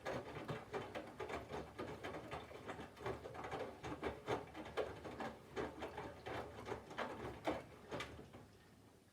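Candy GVF4 137 front-loading washing machine's drum turning wet laundry in water during the cold phase of its wash: an irregular run of soft slaps and sloshes that stops about eight and a half seconds in.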